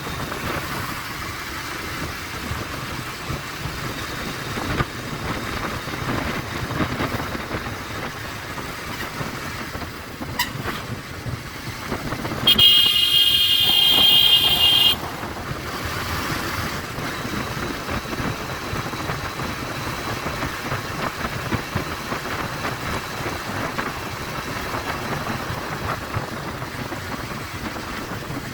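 Steady wind and road noise of a Bajaj Pulsar 150 motorcycle being ridden, with a vehicle horn sounding for about two and a half seconds near the middle.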